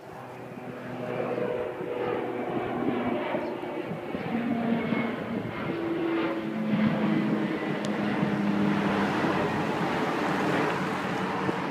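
Aircraft engines running, growing louder over the first couple of seconds, then holding steady with a mix of shifting tones and a broad rush.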